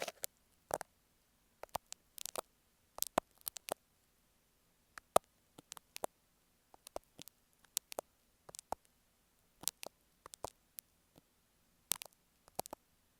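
Marking pins tapping and scratching directly on an earphone microphone: irregular sharp clicks and short scrapes, a few each second with brief gaps between.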